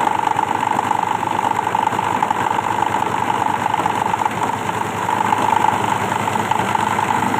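Plastic shredding machine running steadily, a dense, fast, even mechanical clatter with a strong mid-pitched hum.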